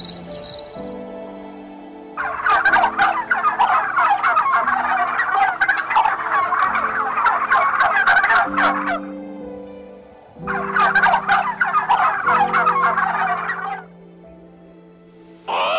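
Birds calling in two long bursts of dense, rapid chatter, the first about seven seconds and the second about three, over soft background music.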